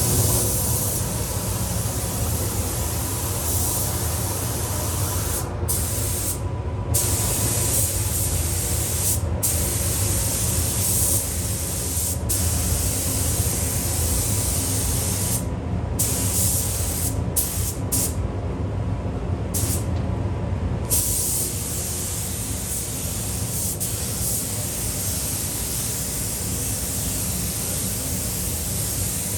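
Paint spray gun hissing as it sprays primer. The hiss cuts out briefly several times between about five and twenty-one seconds in, as the trigger is let go, over the steady low running of the spray booth fan.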